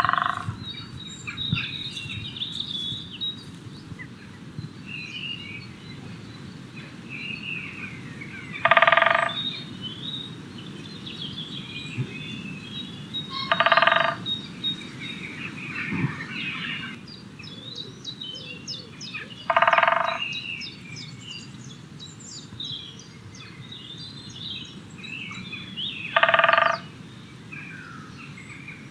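Great spotted woodpecker drumming on wood: four short, fast drum rolls, roughly six seconds apart, the woodpecker's territorial signal. Other birds chirp and sing faintly between the rolls.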